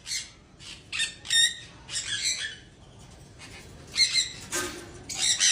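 Parrot calls: short, harsh squawks and chirps repeating every second or so, with a pause of about a second near the middle.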